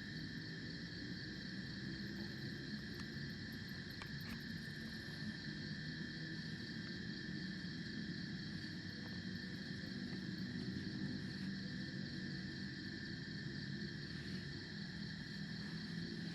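A steady chorus of forest insects, crickets or cicadas, chirring in several high pitches at once over a low, even rushing background noise.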